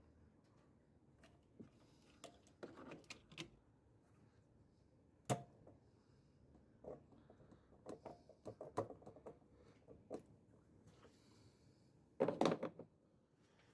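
Scattered clicks and knocks of hand tools and metal engine parts being handled, with a sharp knock about five seconds in and a louder brief clatter near the end.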